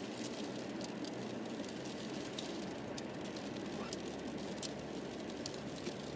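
Steady road and tyre noise heard inside a car driving through a snowstorm, with scattered light ticks of freezing rain hitting the glass.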